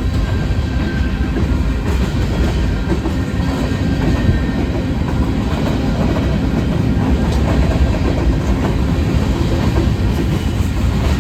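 Freight train rolling past: a loud, steady rumble of railcar wheels on the rails, with clicking as the wheels cross joints.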